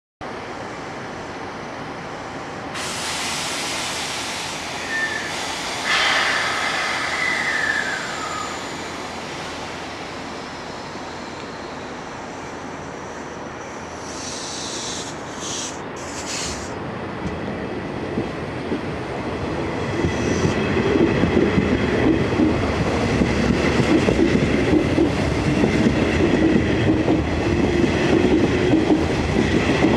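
Nishitetsu 8000 series electric train at a station platform. Air hisses in short bursts about halfway through. In the last third the train's running noise grows steadily louder, with a rumble and clatter of wheels on rail.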